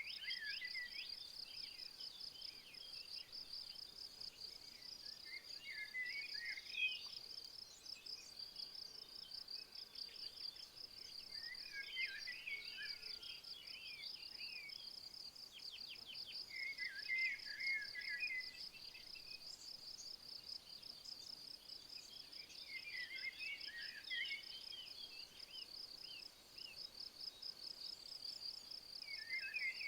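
An insect, likely a cricket or bush-cricket, chirps steadily in a fast, even pulse. A songbird sings short phrases about every five or six seconds over it.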